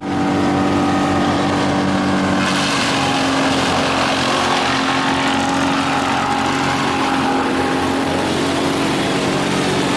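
Small petrol engine running steadily at a constant speed, starting abruptly at a cut.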